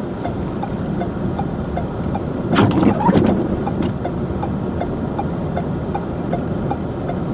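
Vehicle driving: steady road and engine noise with a light, regular ticking about three times a second, and a brief louder rattle about two and a half seconds in.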